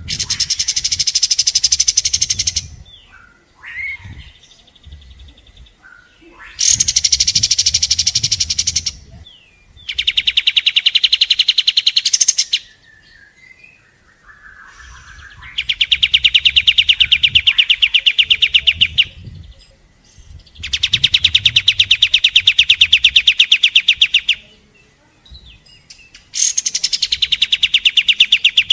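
Kapas tembak bird singing its rapid machine-gun trills: six loud, fast, evenly pulsed rattling bursts of two to three and a half seconds each, separated by short pauses with a few soft single notes.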